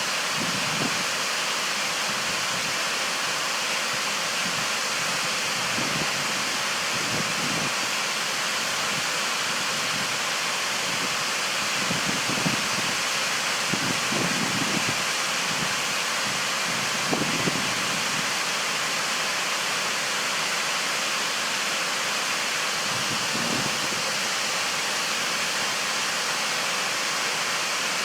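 Waterfall pouring, a steady, even rushing of falling water, with a few brief low rumbles mixed in.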